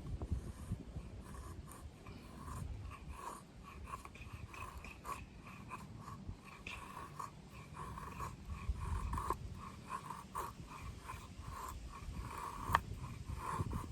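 Helle Didi Galgal knife making a quick run of short scraping strokes, several a second, with a low rumble of handling underneath.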